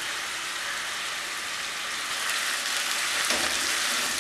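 Taro (chembu) pieces frying in oil in a non-stick kadai, a steady sizzling hiss. Near the end a wooden spatula starts stirring them, scraping the pan.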